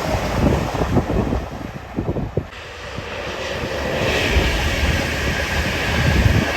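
Wind buffeting the microphone, then a passing train's rumble and rushing noise building up from about halfway through.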